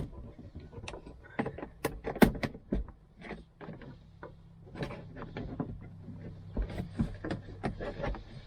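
Plastic interior trim being pried off a car: an irregular string of clicks, knocks and snaps, the loudest a little over two seconds in.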